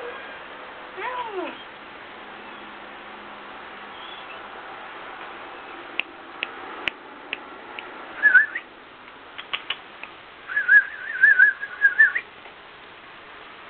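A young kitten gives one short meow that falls in pitch, followed by a few light clicks. Later comes a high, warbling whistle-like trill, once briefly and then again for about a second and a half, and this is the loudest sound.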